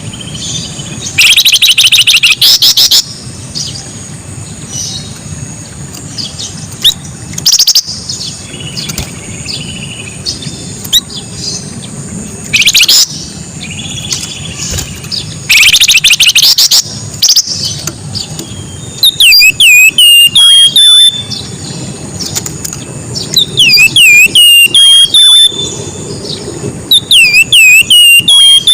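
Flamboyan songbird singing in loud, rapid bursts of high notes. In the second half these give way to quick runs of repeated falling whistled chirps.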